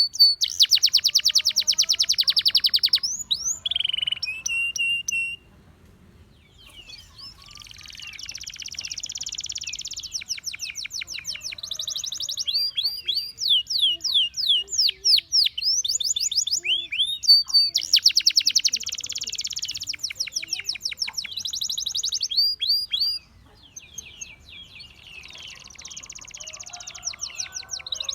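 Gloster canary singing: fast rattling trills alternating with runs of quick rising and falling whistled notes, with two short quieter pauses.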